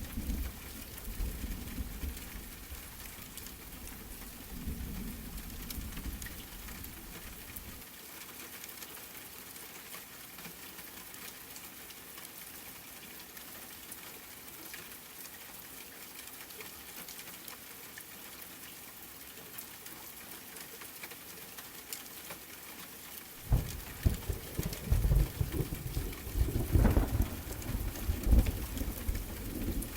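Steady rain falling, with pattering drops throughout. Low rumbles of thunder come near the start and again, louder and rolling, for the last several seconds.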